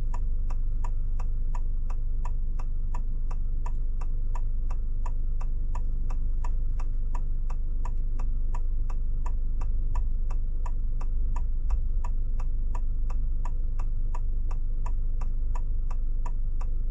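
Car turn-signal indicator ticking steadily, about two to three clicks a second, over the low rumble of the car's cabin.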